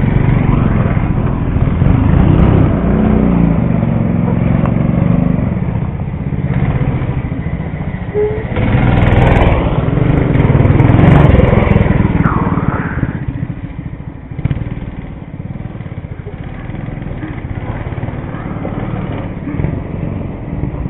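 Mini bike engine running as the bike is ridden, its note rising and falling with the throttle, loudest around the middle and then dropping away to a lower, steadier sound for the last several seconds.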